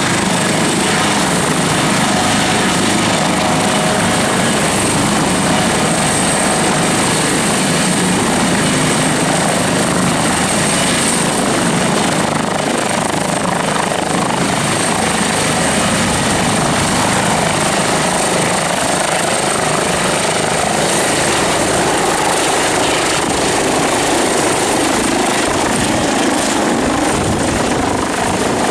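Twin-engine Airbus Helicopters H145 running steadily, its rotor noise overlaid by a high, steady turbine whine.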